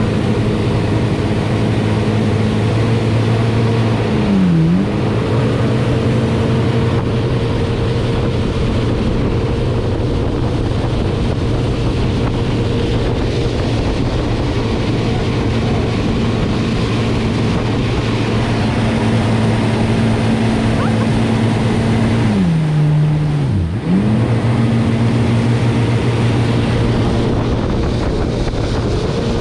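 Watercraft engine running steadily at speed under rushing wind and water noise; twice, about four seconds in and again near the end, the engine note dips briefly in pitch and picks back up as the throttle eases and reopens.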